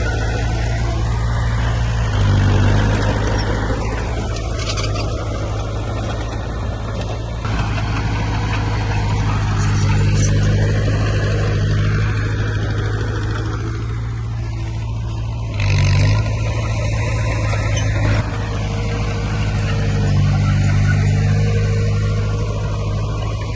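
Diesel engine of heavy earthmoving equipment running steadily under load, with brief surges in power about two and a half seconds in and again about sixteen seconds in.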